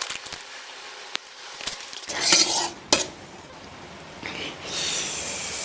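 Spoon clicking and scraping in a bowl of spicy meatball soup, with a louder noisy rush about two seconds in, a sharp clink just before three seconds, and a longer hiss-like stretch near the end.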